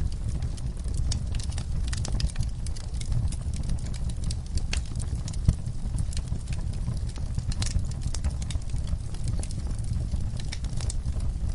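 Wood fire in a fireplace crackling: a dense, irregular run of sharp snaps and pops over a steady low rumble of the flames, with one louder pop about five and a half seconds in.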